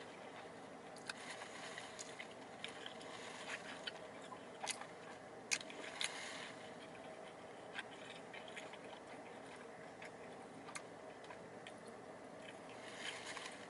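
A person chewing a mouthful of chicken sandwich, faint, with scattered soft mouth clicks and smacks.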